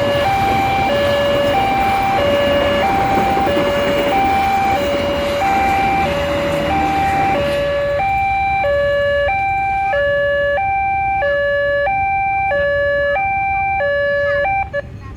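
Railway level-crossing warning alarm sounding in two alternating tones, high-low about every half second. In the first half it sounds over the heavy rumble of a passing train, which fades about halfway through. The alarm stops shortly before the end.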